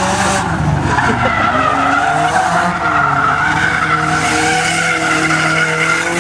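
A car drifting: its engine held at high revs, the note rising and falling, while the tyres squeal in a continuous pitched whine.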